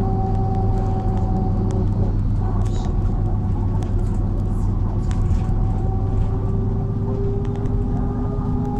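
MAZ-103 city bus driving, heard from inside the cabin: a steady engine and road drone with a whining tone that drifts slightly in pitch, and scattered light rattles and clicks.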